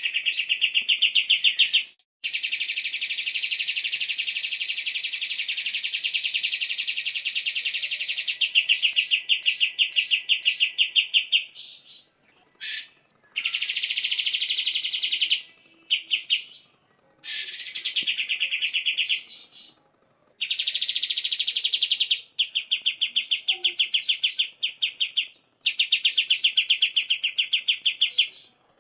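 White-rumped shama (murai batu) singing long, very fast rattling trills in phrases of several seconds, separated by short pauses and a few single sweeping notes.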